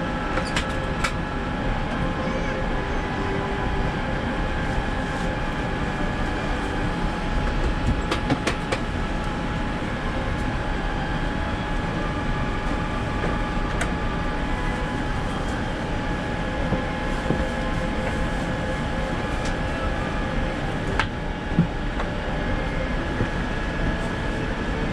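Steady hum of a Boeing 787-9 economy cabin before departure, the air-conditioning running, broken by a few light clicks and knocks.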